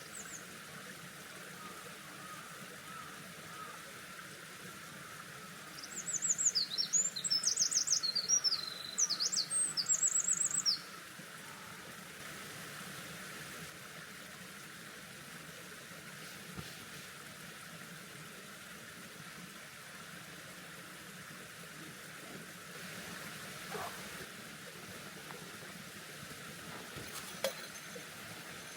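A small songbird sings a fast, high twittering song of rapid rising and falling notes for about five seconds, starting about six seconds in, over the steady rush of a mountain stream.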